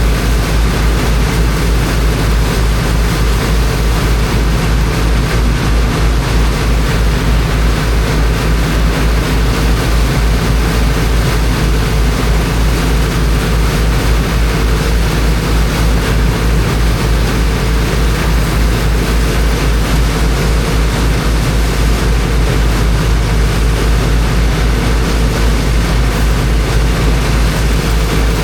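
Engine of a high-pressure water pump running steadily at constant speed: a deep, even drone with a fast regular pulse and a steady hum tone, under a rushing hiss.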